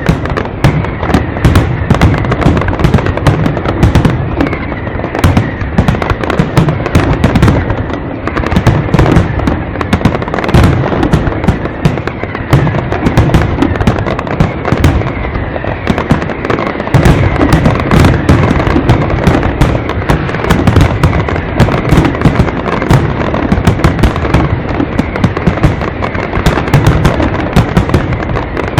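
Aerial fireworks display: a dense, continuous barrage of sharp bangs and crackling bursts over heavy low booms, with no let-up.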